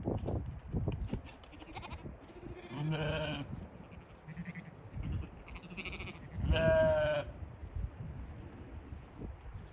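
Blackbelly sheep bleating several times, the loudest call about two-thirds of the way through, with low wind rumble on the microphone at the start.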